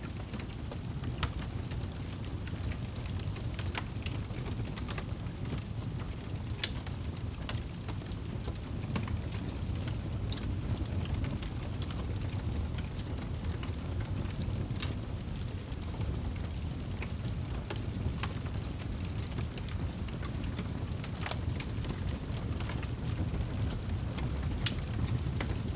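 Crackling fire with steady rain: a constant low rumble under irregular sharp pops and snaps from the burning wood.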